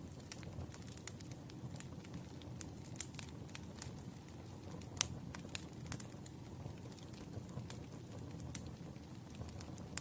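Wood fire burning, with a steady low rush and irregular sharp crackles and pops, one louder pop about halfway through.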